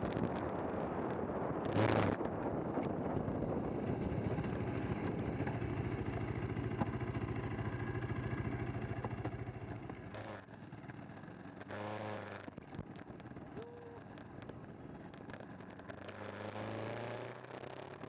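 KTM 390 Adventure's single-cylinder engine running as the motorcycle rides a stony track, with a brief loud burst of noise about two seconds in. About ten seconds in the engine eases off and runs quieter, its pitch shifting for a moment near the twelve-second mark.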